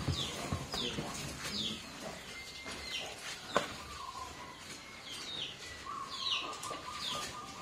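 Small birds chirping: repeated short, high chirps that fall in pitch, coming irregularly about once a second. A single sharp knock comes about three and a half seconds in.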